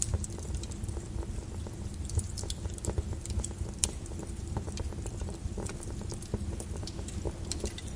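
Volcanic lava flow: a steady low rumble with irregular sharp crackles and pops throughout.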